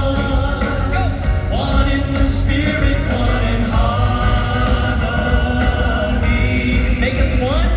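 Live southern gospel music: many voices singing a song together over band accompaniment with a steady bass.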